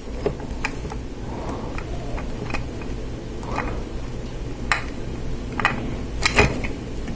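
Lego Technic plastic parts being handled while pneumatic hoses are fitted: a scatter of light plastic clicks and taps, loudest a quick pair about six seconds in, over a steady low hum.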